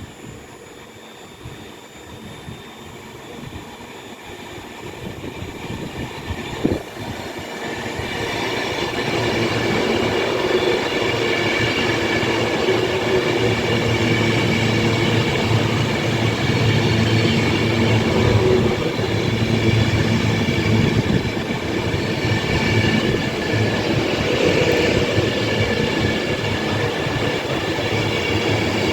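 Class 390 Pendolino electric train passing slowly through the station, growing louder over about the first ten seconds and then staying loud. A low hum runs under several steady high-pitched whining tones, with some wheel squeal and clicking over the rail joints.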